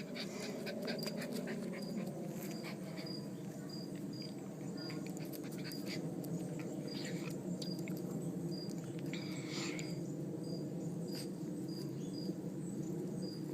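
Dogs and puppies playing, under a steady low hum, with a faint high chirp repeating about twice a second.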